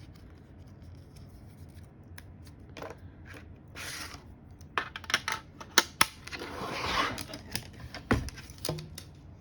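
Cardstock being handled and worked on a tabletop: a series of crisp paper clicks and taps, a rasping rub about two-thirds of the way in, and a dull thump near the end.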